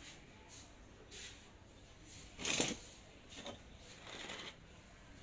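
Plastic bag of replacement seals being handled, giving a few short rustles, the loudest about two and a half seconds in.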